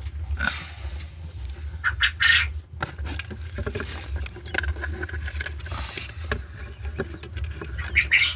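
Newly hatched quail chicks peeping in short, high calls as they are picked up, over a steady low hum.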